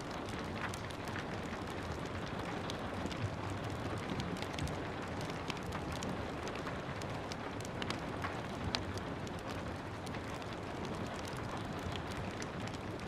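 Steady rain hiss together with a wood fire crackling, small sharp pops scattered irregularly throughout.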